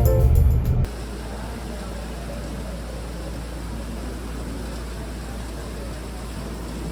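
Organ-like keyboard music cuts off about a second in. What follows is a steady low rumble and even hiss of passenger cabin noise, as heard inside an airliner in flight.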